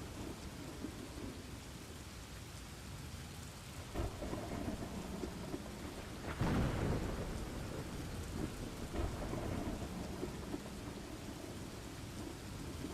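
Steady rain falling, with rolling rumbles of thunder: a short one about four seconds in, the loudest about six and a half seconds in, and a softer one near nine seconds.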